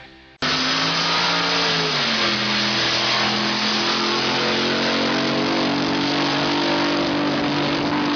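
Drag boat engine running, its pitch dropping about two seconds in and then holding steady.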